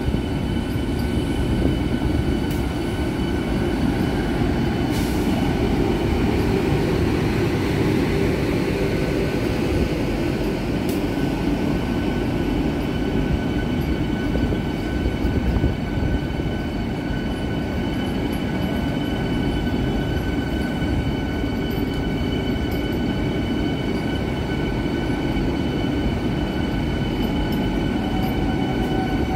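Vande Bharat Express, an electric multiple-unit train, running along the platform: a steady rumble of wheels on rail with a few thin, high, steady whines over it.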